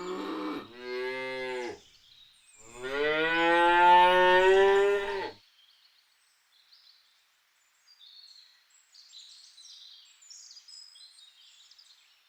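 A cow mooing twice: a first moo that ends about two seconds in, then a longer, louder moo of about two and a half seconds that rises slightly in pitch.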